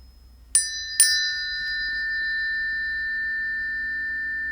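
Two planetary tuning forks struck about half a second apart, each with a bright metallic ping, then ringing on together in two steady high tones that fade very slowly.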